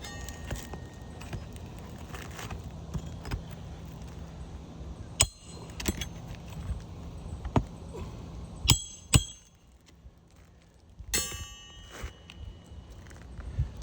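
Metal roofing tools clinking and knocking against asphalt shingles: several sharp, ringing metallic clicks a second or so apart over a low steady rumble, as old brittle shingles are pried up and a replacement is worked in.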